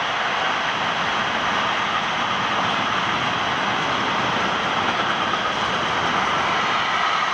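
A train going by, a steady rolling noise that holds even throughout.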